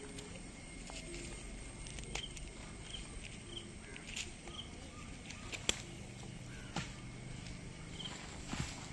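Quiet outdoor ambience with short, faint, high chirps from a small bird, repeating every second or so, and a few soft knocks, the loudest a little past halfway.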